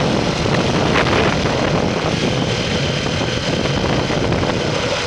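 A steady, loud rush of wind and road noise from a moving motorcycle, heavy on the microphone.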